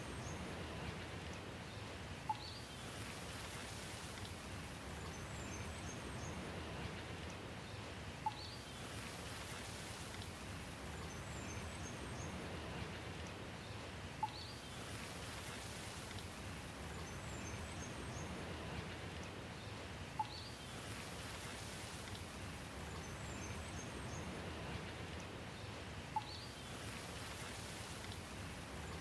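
Steady rain falling, an even hiss. A short cluster of high bird chirps and a brief sharp click recur about every six seconds, identical each time, as in a looped recording.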